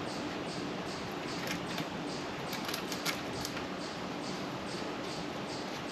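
Emery paper rubbed back and forth between oxidised distributor contact points to clean them: faint repeated scratching strokes, about two to three a second, over a steady low hum.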